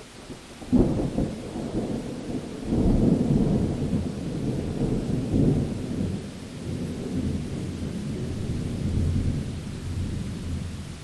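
A thunderclap during a rainstorm: a sudden crack about a second in, then a low rumble that rolls on for several seconds and fades near the end, over steady rain.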